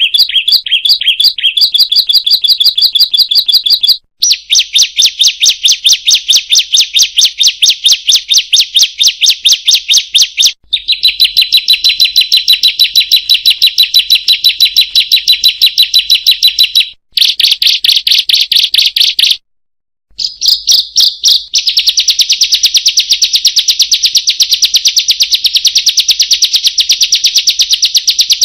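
Ciblek (bar-winged prinia) calling a fast, unbroken run of sharp, high 'kriek-kriek-kriek' chirps, in stretches of several seconds that stop abruptly a few times and start again.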